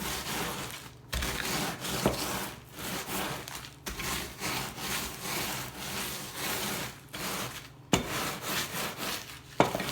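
Rolling pin pushed back and forth over graham crackers sealed in a plastic zip bag, crushing them into crumbs in repeated rubbing, crunching strokes. Two sharp knocks come near the end.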